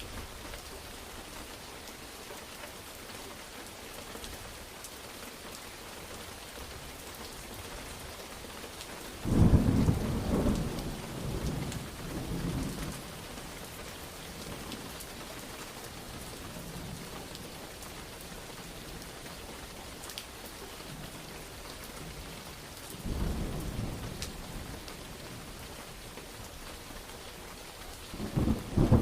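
Steady heavy rain falling on a surface, with thunder: a sudden loud crack and rumble about nine seconds in that rolls on for a few seconds, a weaker rumble later, and another loud clap starting right at the end.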